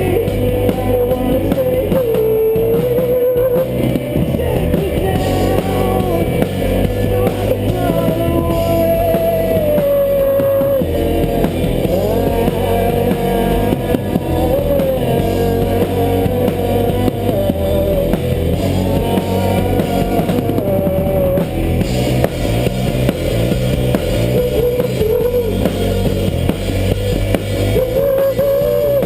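Rock band playing live, loud and steady: drum kit and electric guitars, with a wavering melodic lead line on top.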